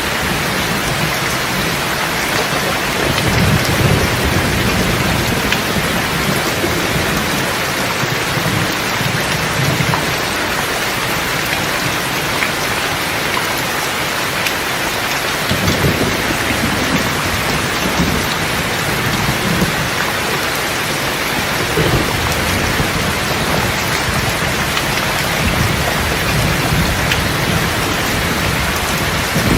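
Steady heavy rain pouring down, with rolling thunder rumbling low at intervals: one long rumble starting about three seconds in, another about halfway through, and a shorter one soon after.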